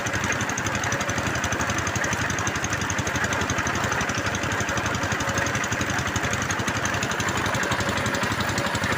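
Engine of a bore well drilling machine running steadily, with a fast, even pulse.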